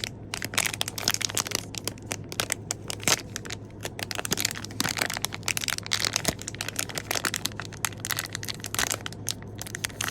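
Plastic packaging crinkling and crackling as it is handled and unwrapped, a dense run of irregular crackles, over a faint steady low hum.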